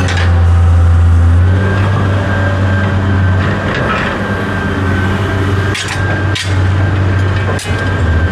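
A steady low motor hum with a thin high whine over it, and a few sharp knocks in the second half, typical of metal being struck or pried while a refrigerator is broken down for scrap.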